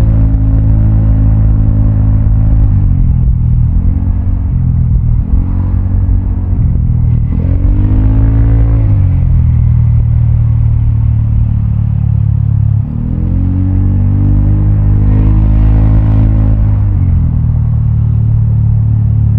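Vespa automatic scooter's single-cylinder engine running through a Prospeed black CNC aftermarket exhaust while riding. The throttle is opened and eased off several times, so the engine note keeps rising and falling, with a sharp rise about seven seconds in and a longer one about thirteen seconds in.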